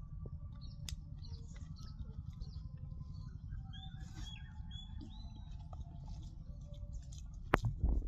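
Birds chirping faintly over a steady low rumble, with scattered small clicks and a couple of loud thumps near the end.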